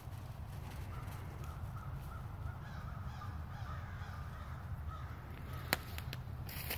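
Faint repeated bird calls in the distance, with two sharp crackles in dry leaf litter near the end.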